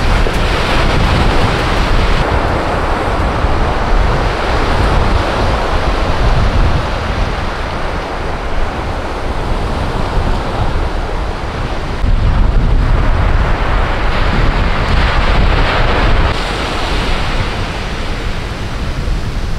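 Sea surf washing onto the beach, with wind buffeting the microphone as a low rumble. The wash swells louder near the start and again about two-thirds of the way through.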